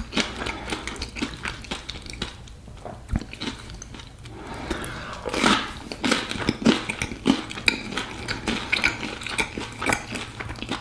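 A person chewing a mouthful of pea stew and bread close to the microphone: irregular mouth clicks and smacks, easing off for a couple of seconds about two seconds in.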